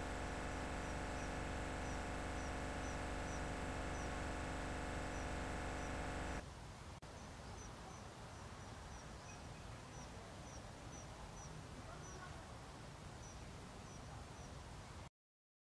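Short, high chirps of a small bird repeating about every half second over faint outdoor ambience. A steady hum made of many tones runs under them and cuts off suddenly about six seconds in, leaving a quieter hiss; the sound drops out to silence just before the end.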